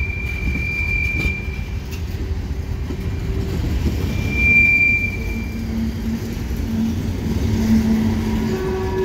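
Freight train cars rolling slowly past on a curve: a steady low rumble of steel wheels on rail. A thin high-pitched wheel squeal sounds for the first couple of seconds and comes back louder about four to five and a half seconds in.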